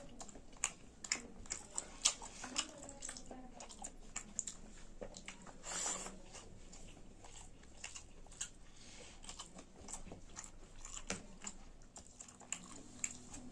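Close-miked eating: wet chewing and biting with many short, sharp mouth clicks and crunches, thickest in the first few seconds, and one short louder burst about six seconds in.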